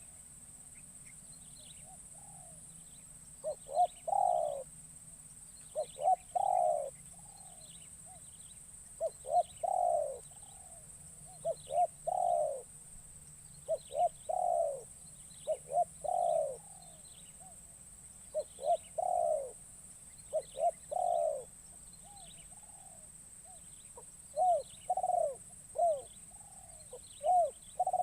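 A spotted dove (terkukur) cooing over and over, a phrase every two to three seconds: a few short notes, then a longer falling coo. It is a caged caller bird singing to lure wild spotted doves.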